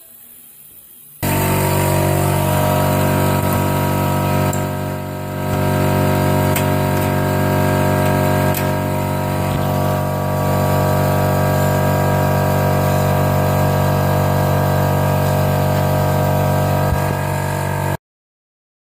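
A motor running steadily at one constant pitch. It starts abruptly about a second in, dips briefly, and cuts off abruptly near the end.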